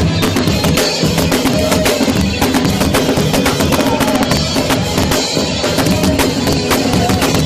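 Live punk band playing loud and fast, with rapid drum hits over a dense wall of band sound. The recording is badly distorted.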